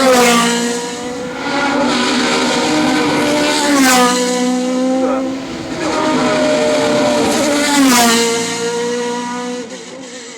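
Race car engine pulling hard and running up through the gears. The pitch drops sharply at each of three upshifts, about four seconds apart, and the sound fades near the end.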